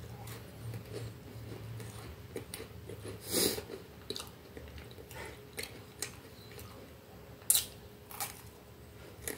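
Close-mic'd chewing and crunching of a square cracker with a soft white spread, with scattered crisp crunches and mouth clicks; the sharpest click comes about three-quarters of the way through.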